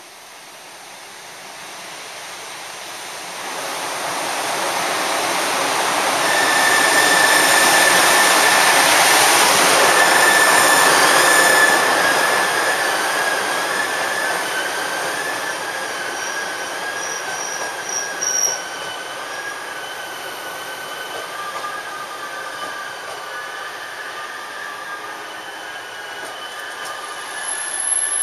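A train of an EF510 electric locomotive and blue passenger coaches runs into a station platform and passes close by, slowing to a stop. It is loudest about six to twelve seconds in. From about six seconds on, high brake squeal rings over the rolling noise and holds as the coaches slow, and a sharper high squeal comes right at the end.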